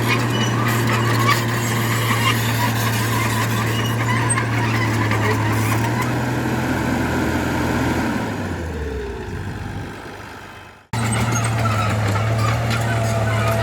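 Heavy-equipment diesel engine running steadily with a low drone. About eight seconds in it drops in pitch and fades almost to silence, then the same engine sound comes back abruptly.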